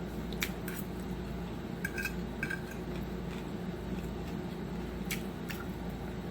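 A few light clicks and two short ringing clinks of eating utensils against dishware, over a steady low hum.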